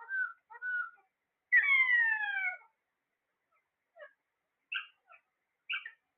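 Parrots calling: a few short chirps, then one loud call that falls in pitch for about a second, then after a pause a scattered run of short chirps.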